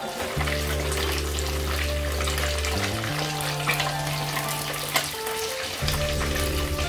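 Two whole Dover sole shallow-frying in hot oil in a pan, a steady sizzle full of fine crackles, with background music playing low held notes underneath.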